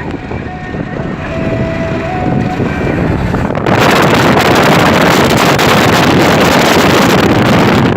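Travel noise of a moving road vehicle. About halfway through, it is abruptly swamped by loud, steady wind buffeting on the microphone.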